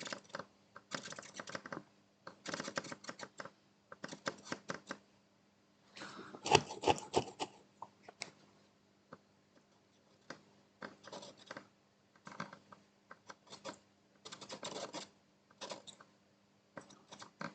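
Irregular bursts of light scratching and clicking from soldering tools worked against a circuit board and workbench, with a louder cluster about six and a half seconds in. A faint steady hum runs underneath.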